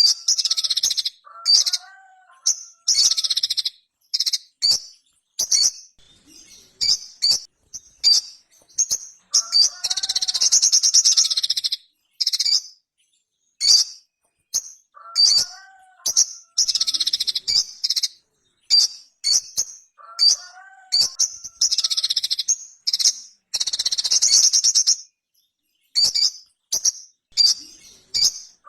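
Sogon (sogok ontong), a small nectar-feeding bird, singing loudly: quick runs of sharp, high chips broken by several longer, rapid twittering trills.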